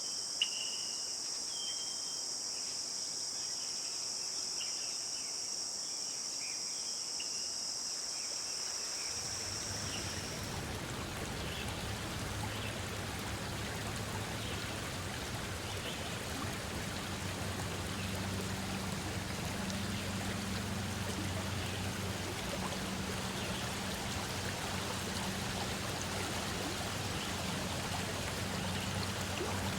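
A steady high-pitched insect chorus with short repeated chirps. About nine seconds in it gives way to the even rush of a flowing stream, which carries a low steady hum.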